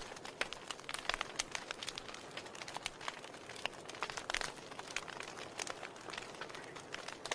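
Wood fire burning in a fireplace, crackling: irregular sharp pops and snaps over a soft steady hiss, with a cluster of louder pops a little past halfway.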